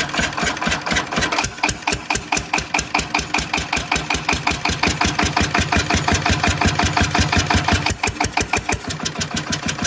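Cunewalde 1H65 engine running through a stainless-steel exhaust, a steady beat of about nine exhaust strokes a second, stumbling briefly about eight seconds in.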